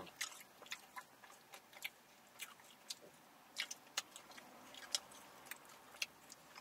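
Two people chewing and biting into fried spring rolls, with irregular soft crackles and wet mouth clicks.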